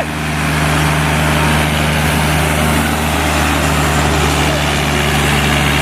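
Diesel tractor engines running steadily under load in a tractor tug-of-war, a loud, even drone.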